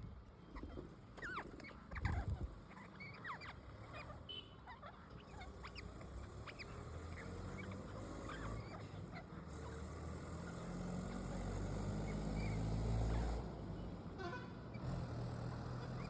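Pet parrots chirping and squawking in quick short calls during the first few seconds. Then a vehicle passes, its low engine rumble swelling over several seconds and dropping away sharply a few seconds before the end.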